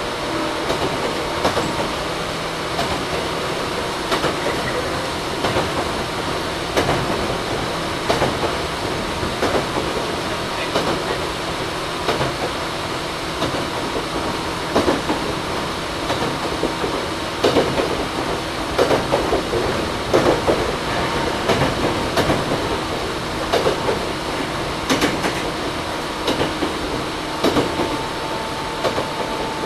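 Toyohashi Railway 1800 series (ex-Tokyu 7200 series, resistance-controlled) electric train heard from inside a motor car while it runs along the line: a steady running rumble with the wheels knocking over rail joints, the knocks coming more often in the second half. The air conditioning runs throughout.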